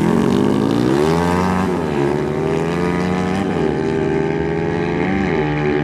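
Dirt-bike engine running at high revs. Its pitch climbs, drops sharply about two seconds in, and dips briefly twice more, as gears are changed during a run.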